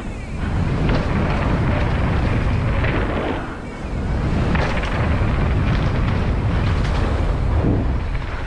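Wind buffeting the microphone of a riding mountain biker, a steady low rush that dips briefly about three and a half seconds in.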